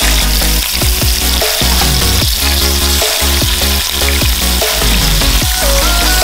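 Scallops and shrimp sizzling in hot oil in a frying pan, under background music with a heavy bass and a steady beat.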